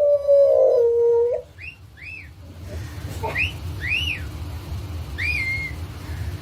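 A dog whining: first a long, slightly falling whine, then a series of short, high-pitched squeaky whimpers that rise and fall.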